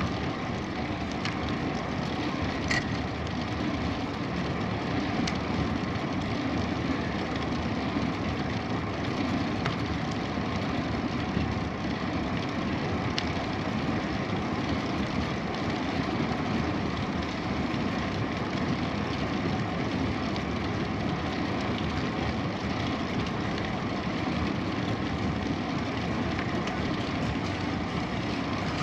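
Steady, even riding noise from a bicycle on the move: tyres rolling on the path and wind buffeting the microphone.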